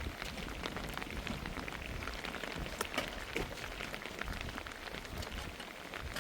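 Steady rain falling, with many separate drops ticking irregularly on a hard surface.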